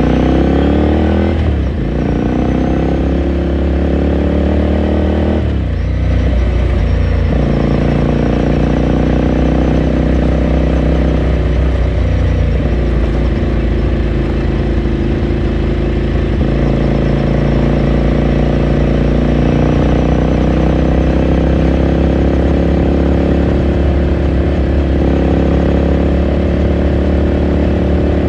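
2018 Ducati Scrambler Sixty2's air-cooled L-twin engine running under way, heard from on board. Its revs drop sharply twice in the first six seconds, then hold steady and climb slowly through the second half.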